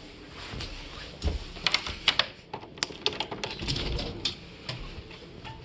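A run of irregular sharp clicks and light knocks, a few closely bunched, over faint low rumble.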